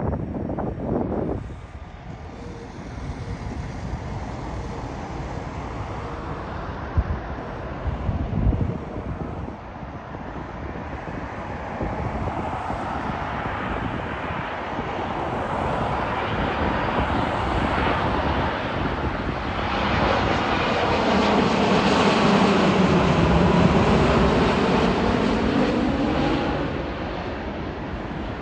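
American Airlines jet airliner on landing approach. Its engine noise builds, is loudest about two-thirds of the way in with the pitch sliding as it passes, then fades. Gusty wind buffets the microphone throughout.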